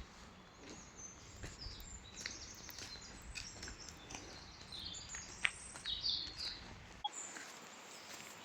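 Small birds chirping and twittering in quick, short calls over a faint steady background noise. The low background rumble cuts off abruptly about seven seconds in.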